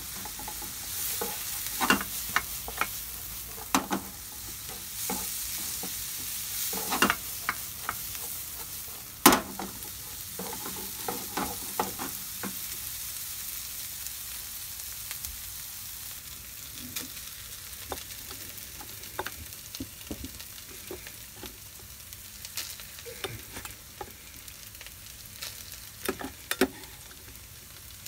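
Diced onion, green pepper and sliced red wiener sausage sizzling in a frying pan, with a wooden spatula scraping and knocking against the pan as the food is stirred. The stirring is busiest in the first dozen seconds; after that the steady sizzle carries on with only occasional taps, which come a little more often near the end.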